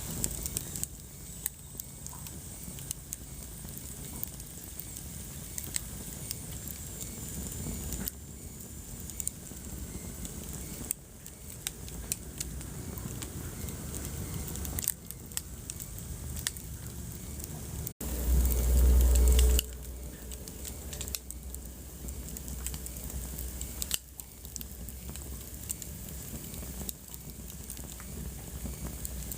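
Wood fire crackling in a fireplace: scattered sharp pops and snaps over a steady low rumble of the flames. About two-thirds of the way through, the sound cuts out for an instant and then a loud low rumble lasts about a second and a half.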